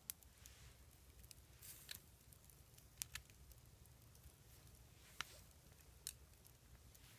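Near silence with a low steady rumble and a few scattered sharp clicks, about six, spread out irregularly.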